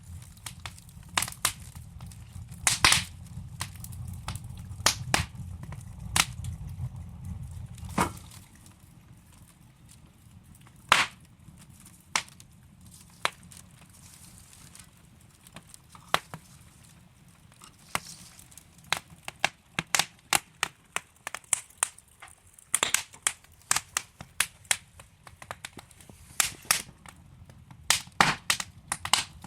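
Wood fire crackling in a fireplace: burning logs giving off irregular sharp pops and snaps, some much louder than others. A low rumble underlies the crackle for the first eight seconds or so, then stops.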